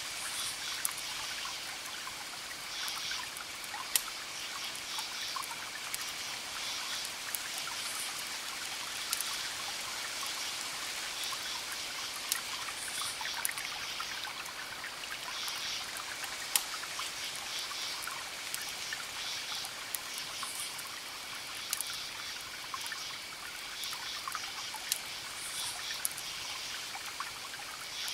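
Wood fire crackling: sharp pops every second or two over a steady hiss. A faint steady high-pitched tone and short, repeated high chirps run behind it.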